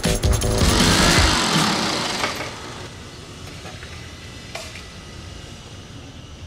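Music with a beat cuts out about a second and a half in under a loud rushing noise that fades over the next second, leaving a quiet steady hum like street traffic.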